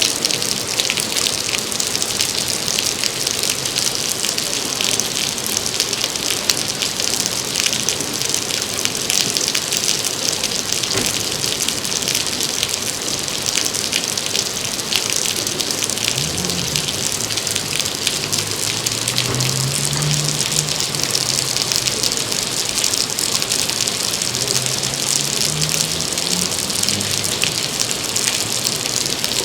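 Heavy rain falling steadily, with many close drops ticking and pattering. A faint low hum wavers and rises in the second half.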